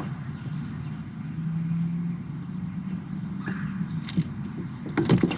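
Steady high-pitched drone of insects in summer heat, over a low rumble, with a few short clicks and knocks near the end.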